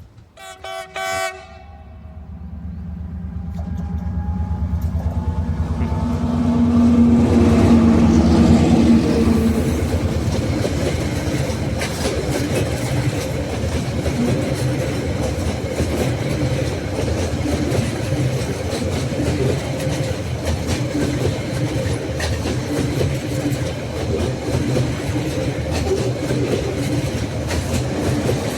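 Diesel locomotive horn sounds two short blasts. The locomotive's engine then grows louder as the train comes up and passes, loudest a few seconds in. The wagons follow with a steady rumble and clickety-clack of wheels on rail.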